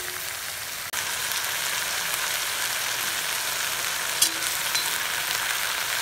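Fresh mint leaves frying in hot oil in a pan: a steady sizzle that grows louder about a second in, with one sharp click of a utensil a little past the middle.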